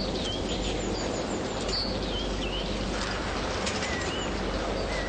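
Small birds chirping: short, high, scattered calls over a steady background hiss.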